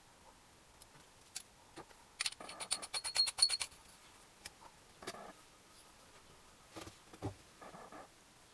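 Metal tools and engine parts being handled on a workbench. About two seconds in comes a quick run of metallic clicks, about nine a second for a second and a half, followed later by a few short rubbing sounds.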